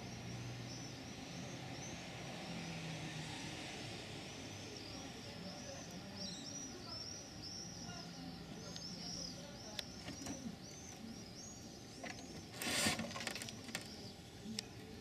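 Small birds chirping, quick short calls repeated over and over. Near the end comes a short rustling scrape, the loudest sound, with a few sharp clicks shortly before it.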